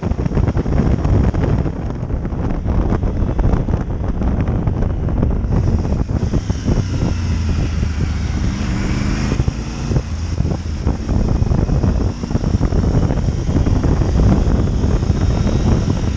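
Motorcycle on the move: heavy wind buffeting on the microphone over the engine and road noise, with a rising whine for a few seconds around the middle.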